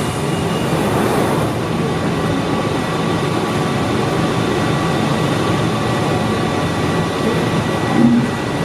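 London Underground Central Line 1992 stock train running at the underground platform: a steady rumble with a few faint, constant whining tones above it.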